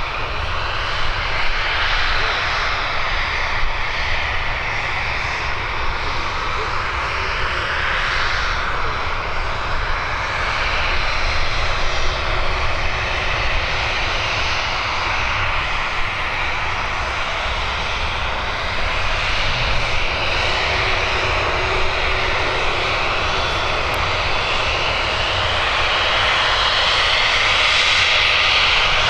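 Jet engines of a Boeing 737-800 (CFM56-7B turbofans) running in a steady, loud, airy noise whose upper tones slowly waver, growing a little louder near the end, with a heavy low rumble underneath.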